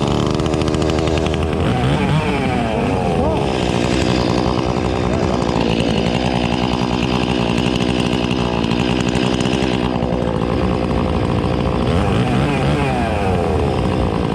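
Chainsaw running steadily at high revs while cutting wood, its pitch briefly dipping and recovering about two seconds in and again near the end.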